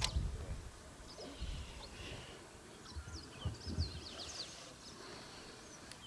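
Faint birds calling: scattered short, high chirps, with a run of quick downward-sliding notes about four seconds in, over faint low rumbles.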